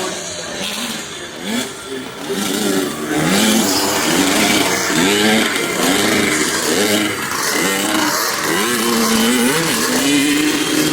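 Vintage motocross bikes racing, their engines revving up and down over and over as the throttle is worked.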